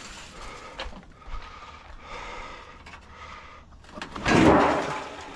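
A bulky piece of scrap being shoved over the side onto a single-axle trailer: faint scraping, then a loud scrape and clunk about four seconds in as it slides onto the deck.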